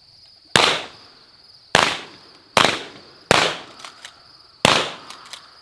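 Shotgun shots: five blasts in about four seconds, each with a short echoing tail. Crickets chirp steadily underneath.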